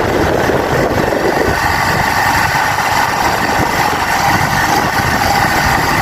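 Motorcycle running steadily while being ridden, with constant wind and road noise on the microphone.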